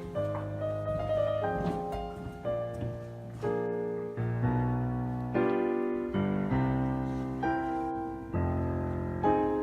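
Background piano music: slow chords struck about once a second, each note fading before the next.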